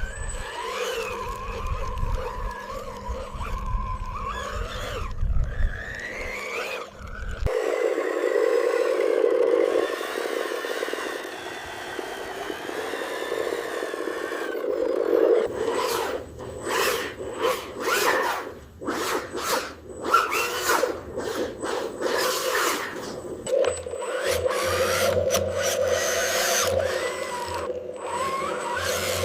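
Radio-controlled construction machines at work: a steady motor whine with scraping and clattering of material. A low rumble runs for the first several seconds, a quick run of scraping strokes comes past the middle, and the whine rises and falls near the end.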